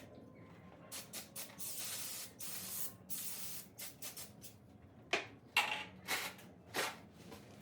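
Aerosol can of brake cleaner spraying in a series of short and longer hissing bursts, the loudest coming in the second half.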